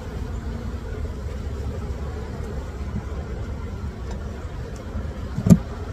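Honey bees humming around an opened hive over a steady low rumble, with a single sharp knock about five and a half seconds in.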